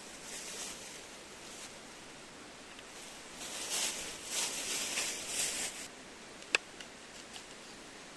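Rustling handling noises come in several bursts for a couple of seconds, followed by a single sharp click.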